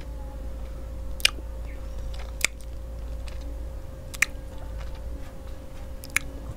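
Close-miked eating of a stick ice cream bar: quiet chewing with sharp wet mouth clicks and smacks, about five spread over the few seconds.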